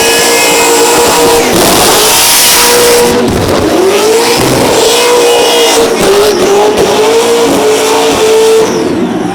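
Supercharged burnout car's engine revving hard near the limiter, pitch repeatedly dropping and climbing back as the revs bounce, with tyre noise from the burnout.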